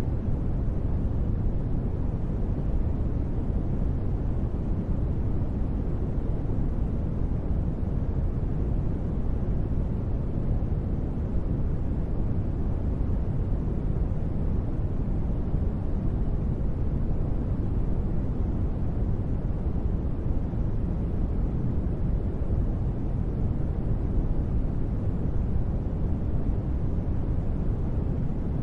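Steady, unchanging synthesized space-ambience noise: a deep rumble-like hiss, heavy in the bass and thinning out toward the treble, with no distinct events.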